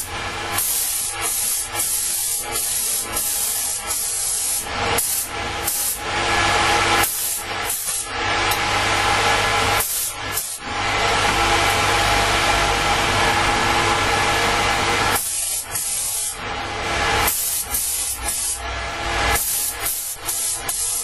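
Paint spray gun hissing as engine enamel is sprayed, triggered in short bursts with one long continuous pass of about four seconds near the middle.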